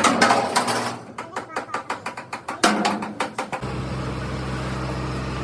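A quick run of sharp taps and clicks, then about three and a half seconds in an engine starts and runs with a steady low hum.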